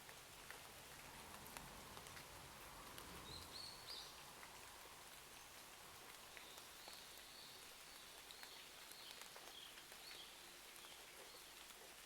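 Faint steady rain with scattered small crackles and drips. A few faint high chirps come in about three seconds in and again in the second half.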